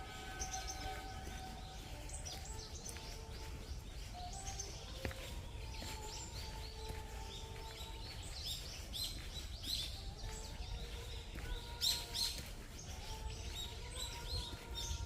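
Several wild birds chirping and calling, many short high notes throughout, loudest about twelve seconds in, over a steady low background rumble.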